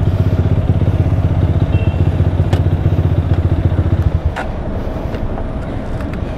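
Rusi Diablo motorcycle fitted with a custom Orion muffler, idling with a steady, fast low exhaust pulse that cuts off suddenly about four seconds in, leaving quieter street background.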